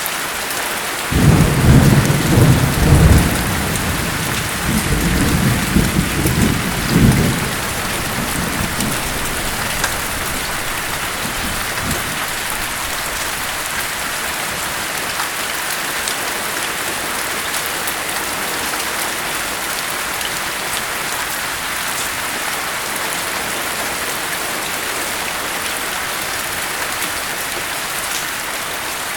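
Steady heavy rain, with a roll of thunder about a second in: a low rumble that swells several times and fades out by about seven seconds. After that, only the even hiss of rain.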